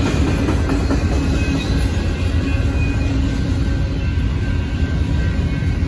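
Union Pacific intermodal container train rolling through a grade crossing, with the steady rumble and rattle of the cars' wheels on the rails. Crossing bells ring steadily over it.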